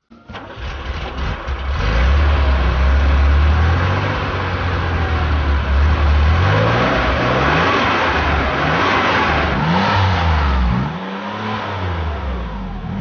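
Car engine accelerating and revving, loud, its pitch rising and falling several times.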